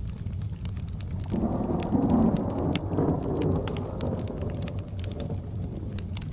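A roll of thunder starts suddenly about a second in, peaks a second later and rumbles away over the next few seconds. Underneath it a fireplace crackles with sharp pops, and rain falls.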